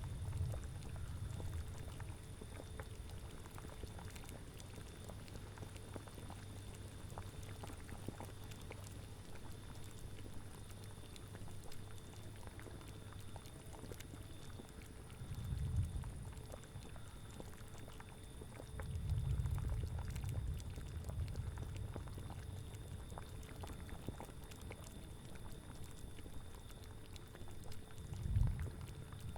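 A cauldron bubbling at a boil, with small pops all the way through. Low rumbling swells rise about halfway in, again around two-thirds in, and once more near the end.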